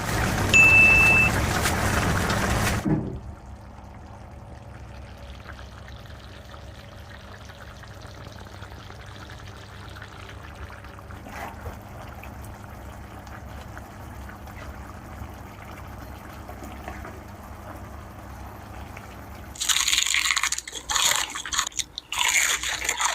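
Thick humba sauce bubbling in the pan, with a short high beep about a second in, cut off abruptly after about three seconds. A faint steady hum follows, then irregular knocks and rustles near the end.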